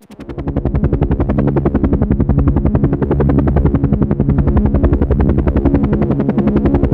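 Helicopter rotor sound: a fast, steady chopping beat with a low two-note hum stepping back and forth beneath it. It drops out at the very start and swells back within half a second.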